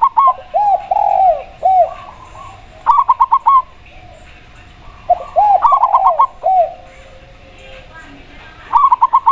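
A spotted dove and a zebra dove cooing in turn. Quick runs of five or six short, higher coos alternate with slower, lower, arched coos, in bouts about every three seconds.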